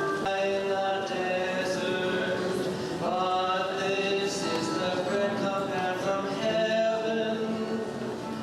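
A group of voices singing, holding long notes that move in steps.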